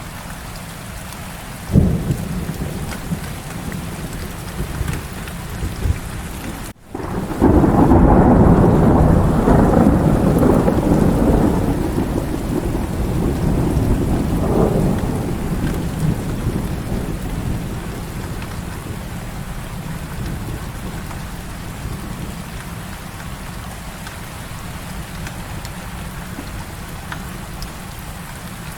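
Heavy rain falling steadily throughout. A sharp crack of thunder comes about two seconds in. The sound drops out for an instant around seven seconds in, then a loud, deep rolling rumble of thunder begins, swells once more and slowly dies away over the next ten seconds or so.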